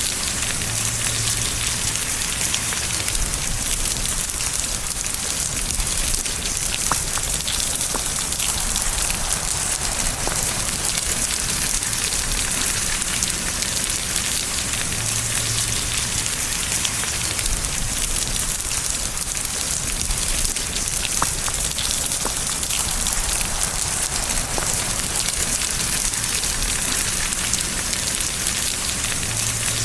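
Steady rain falling: an even hiss with a few individual drops ticking through it.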